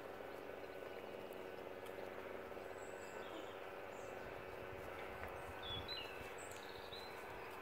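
Steady outdoor background hiss with a few short, high bird chirps, most of them a little past halfway, and a brief low bump near the end.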